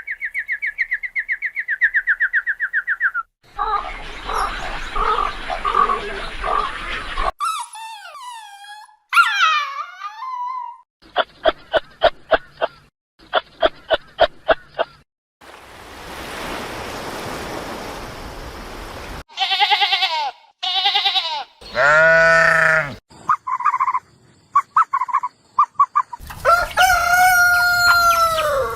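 A quick succession of different animal and bird calls, each cut short, as in an animal-sounds sequence. Near the end come short clucks, then a rooster crowing.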